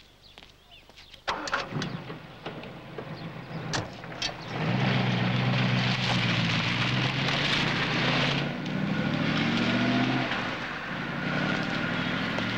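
A small sports car's engine starts suddenly about a second in, then pulls away under acceleration. Its pitch climbs and falls back twice as it changes gear.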